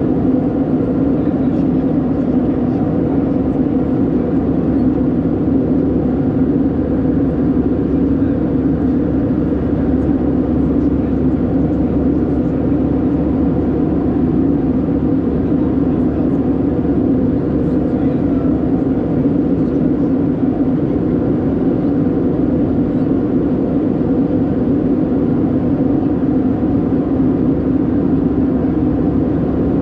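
Steady engine drone heard inside the cabin of an Airbus A319-112, its CFM56 engines running at constant power with a deep rumble underneath.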